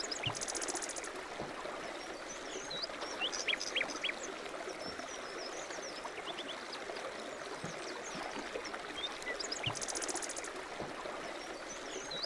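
Running water with small birds chirping over it: many short high chirps and whistles, and a rapid buzzy trill near the start and again near the end.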